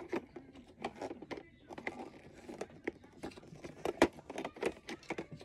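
Hard plastic toy parts knocking and clicking irregularly as a wing is tried on and pushed onto a plastic toy airplane, with a sharper knock about four seconds in.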